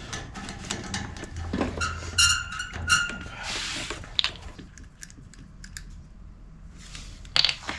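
Hand tools and metal parts being handled during refrigeration repair work: a run of clicks and rattles, with two short ringing metallic clinks about two and three seconds in and another clatter near the end.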